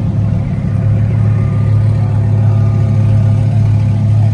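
Car engine running steadily, a loud low even note with no revving.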